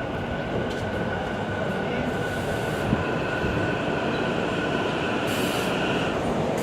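SEPTA electric multiple-unit commuter train rolling through the station: a steady rumble of wheels on rails with a high, steady squeal over it that stops near the end.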